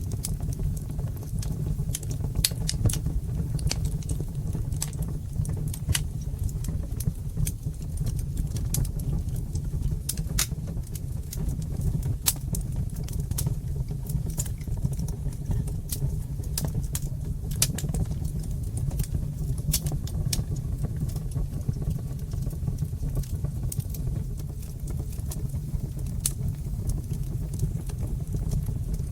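Wood fire crackling in a fireplace: a steady low rumble of burning with frequent, irregular sharp pops and snaps.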